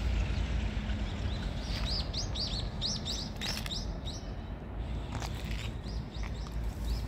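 A small bird chirping: a quick run of about ten short rising chirps, then a few fainter ones, over a steady low rumble.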